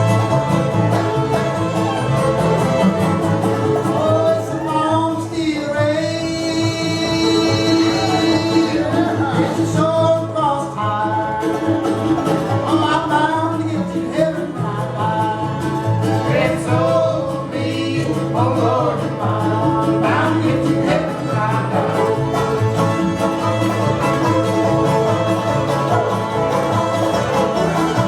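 A string band playing live: fiddle and strummed strings over a bouncing two-note bass line, with a singing voice or fiddle melody wavering above it through the middle of the tune.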